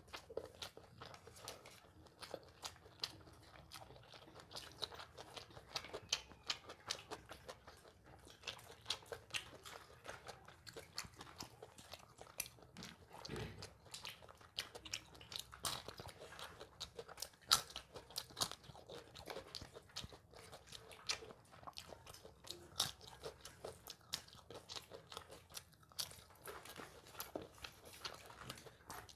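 A person eating close to the microphone: irregular chewing and crunching with many small mouth clicks.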